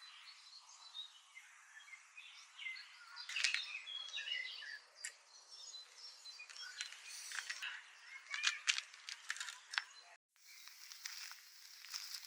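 Small birds chirping and calling, with many quick sharp ticks among the calls over a steady hiss; the sound cuts out for a moment about ten seconds in and comes back hissier.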